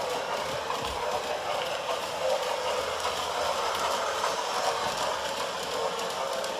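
Toy train running along its track, a steady mechanical clatter.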